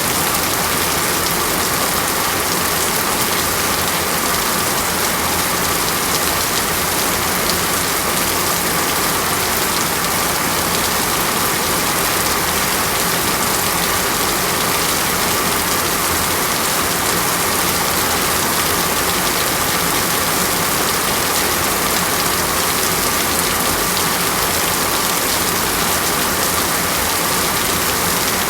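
Steady heavy rain falling in a tropical rainforest, a dense, even hiss of drops with no breaks and no thunder.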